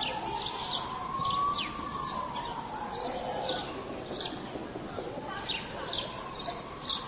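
Birds chirping in quick short falling notes, two or three a second, over a steady outdoor hiss. Under them a slow wavering tone rises and falls, once over the first few seconds and again near the end.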